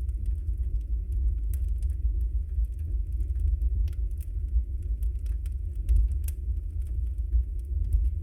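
Logs burning in a fireplace: a low, steady rumble of the fire with scattered sharp crackles and pops, about two a second.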